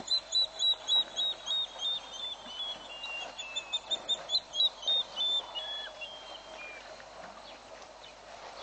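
A bird calling: a long series of short clear notes, about four a second, slowly falling in pitch and fading out after about seven seconds.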